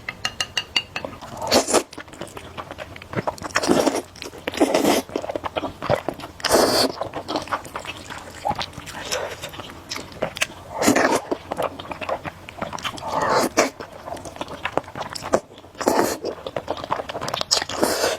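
Close-up eating of spicy instant noodles: steady wet chewing and biting clicks, broken by about eight louder, noisy slurps spread through the stretch.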